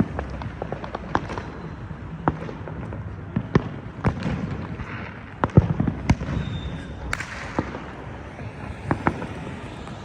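Neighborhood fireworks and firecrackers going off: irregular sharp pops and cracks at varying distances over a steady low rumble, with the loudest bangs about halfway through.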